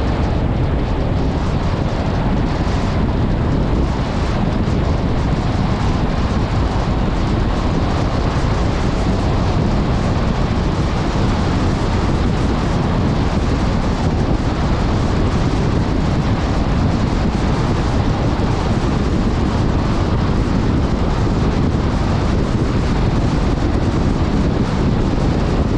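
Off-road vehicle driving over sand, its engine and tyres a steady low rumble under heavy wind buffeting on the microphone.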